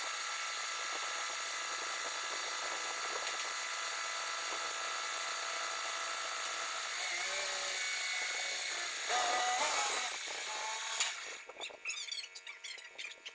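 A power tool running with a steady high whine, its pitch dipping briefly twice, then switched off about 11 seconds in, followed by a few light clicks and knocks.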